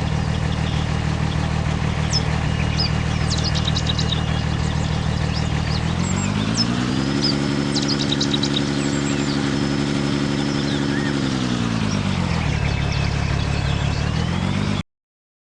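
A vehicle engine idles, revs up about six seconds in, holds there, and settles back to idle about twelve seconds in, with birds chirping in the background. The sound cuts off abruptly near the end.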